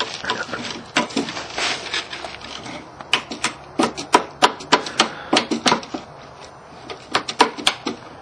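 Hammer driving a nail into the wood of a birdhouse roof: a run of sharp taps at about three a second, with a short pause about six seconds in before the tapping resumes.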